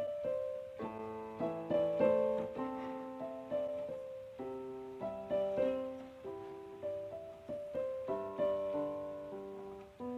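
Background music: a slow, gentle solo piano piece, notes and chords struck and left to ring.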